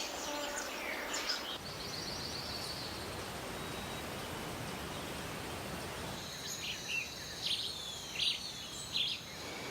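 Rainforest ambience: a steady hiss of background noise with scattered bird calls. A short trill sounds near the start, and from about six seconds in a high steady tone comes in with short chirps and falling whistles over it.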